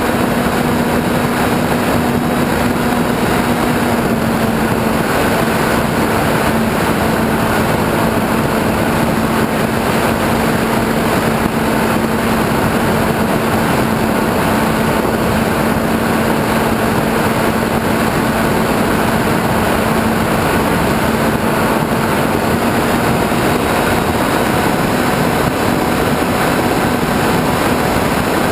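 Radio-controlled airplane's motor and propeller running at steady cruise, heard from a camera on the plane with rushing wind noise. The hum holds a steady pitch and dips slightly about four seconds in.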